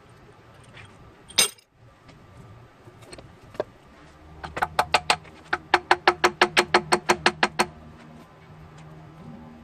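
A single metallic clatter, then a quick, even run of about twenty sharp metal clicks, roughly six a second, from a hand tool working on engine parts.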